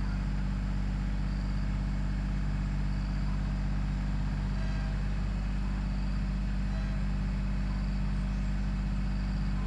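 Tractor diesel engine running steadily at constant speed, a low even drone with no change in pitch or level.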